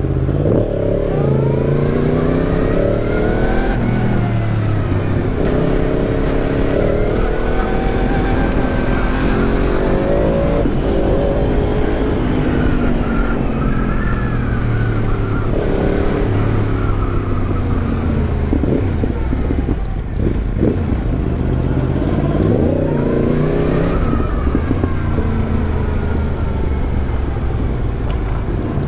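Yamaha MT-10's crossplane inline-four engine, breathing through an Arrow exhaust, pulling hard through the gears. Its pitch climbs and drops back at each upshift, then eases off, with another strong pull a little past two-thirds of the way through.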